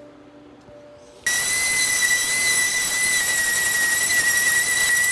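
Electric sander starting abruptly about a second in and running with a steady high-pitched whine over a hiss.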